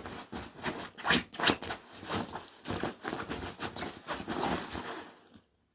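Puppy scrabbling and digging at a fabric dog bed: irregular scratching and rustling of the cloth that stops a little before the end.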